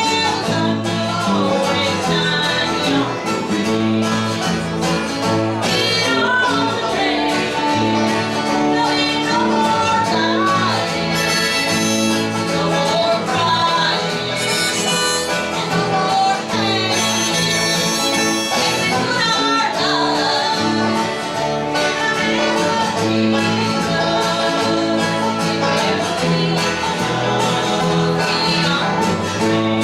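Live country music from a small acoustic band: strummed guitar and bass under a wandering melody line.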